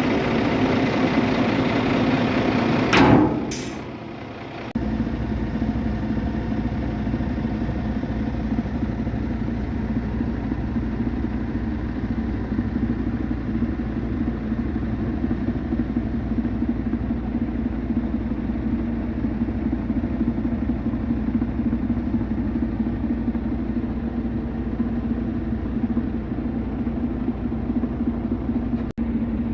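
Scania G450 truck's 13-litre straight-six diesel idling steadily. A brief loud sharp sound about three seconds in is followed by about a second of lower level before the steady idle resumes.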